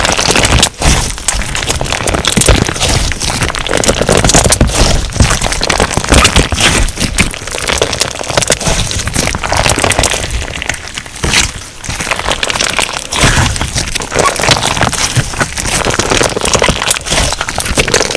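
Crunch slime being squeezed and kneaded by hand, giving a dense run of crackling, popping clicks, with a brief lull about two-thirds of the way through.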